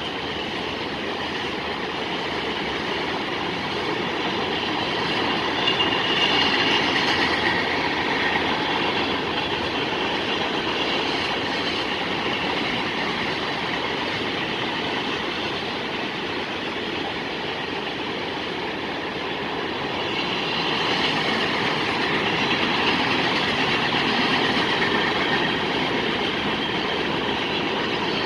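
A train's railroad cars rolling past on the rails, a steady rumble with wheel noise that swells louder twice, about six seconds in and again after twenty seconds.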